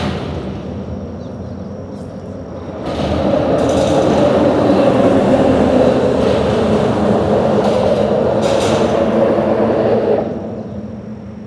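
Steady traffic-type running noise with a heavier vehicle passing close by. It swells about three seconds in, stays loud for about seven seconds, then falls away near the end.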